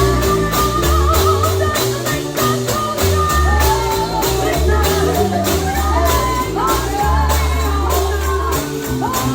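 Live gospel music: voices singing over a band with a stepping bass line and a steady beat of sharp percussion strokes, about four a second, from tambourine and drums.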